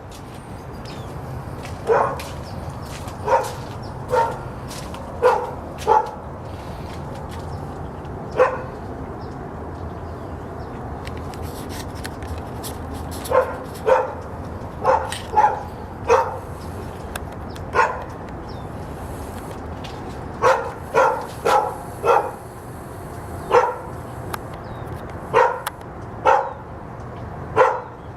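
A dog barking repeatedly in short single barks, irregularly spaced with a pause of a few seconds partway through, about twenty in all, over a steady low hum.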